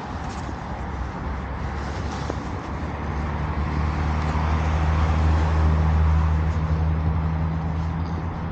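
Road traffic with a motor vehicle passing: its low engine hum comes in about three seconds in, swells, then fades near the end.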